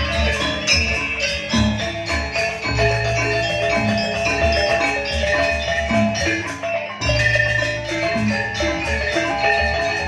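Gamelan music accompanying a janger dance: metallophones strike a busy, ringing melody over a steady low beat. The low part drops out for a moment about seven seconds in.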